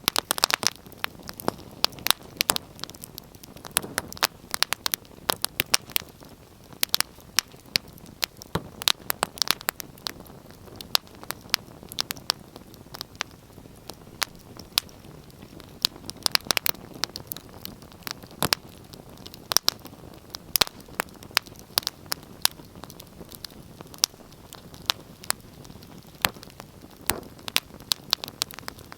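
Wood fire burning in a fireplace, crackling steadily with many irregular sharp pops and snaps, several a second, over a soft low rush of flame.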